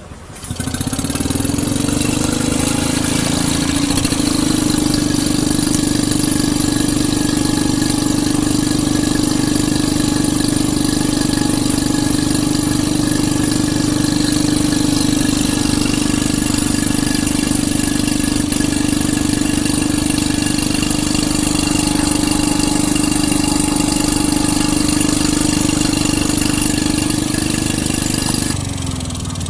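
An engine running at a steady speed with a strong humming tone. It picks up speed over the first few seconds and drops away about a second before the end.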